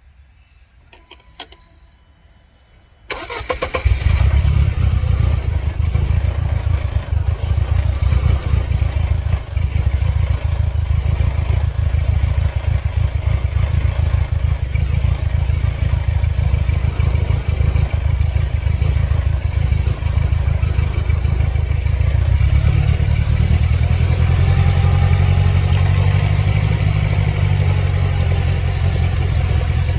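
A few faint clicks, then about three seconds in the 1999 Mercedes-Benz C230 Kompressor's supercharged 2.3-litre four-cylinder engine starts suddenly and keeps running steadily. This is the engine that is flashing its check-engine light and has serious trouble.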